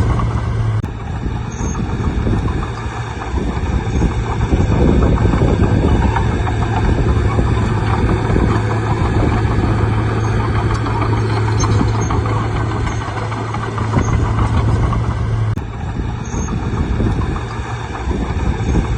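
Bulldozer's diesel engine running steadily under load, with a strong low hum and the rumble of the machine working; the sound shifts abruptly about a second in and again near the end.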